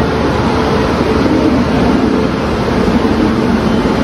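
Dibrugarh Rajdhani Express train rolling into the station platform close by: a loud, steady rumble with a hum running through it.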